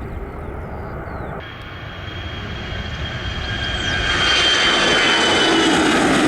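Jet airliner engines passing close, growing louder over about two seconds into a loud steady noise with a high, slowly falling whine.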